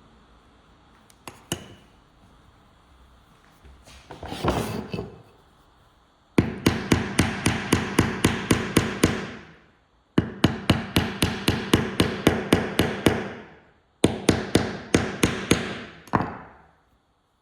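Hammer blows in three quick runs of about five strikes a second, each run lasting about three seconds, the blows ringing briefly. A short noise comes about four seconds in, before the hammering starts.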